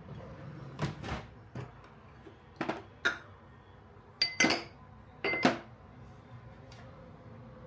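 Dishes and kitchen utensils clinking and knocking, about nine separate taps and clinks; two of them, around four and five seconds in, ring briefly.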